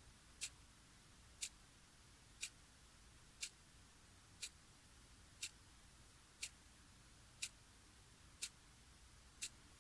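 Clock ticking steadily, one sharp, light tick about every second.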